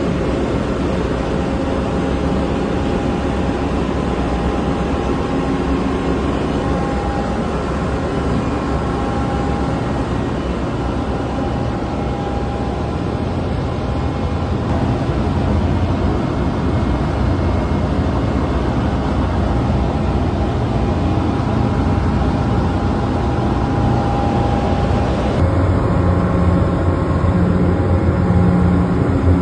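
Steady engine-room noise of a ship's running main engine: a loud, even machinery drone with faint steady tones in it. About 25 seconds in, the low hum grows stronger.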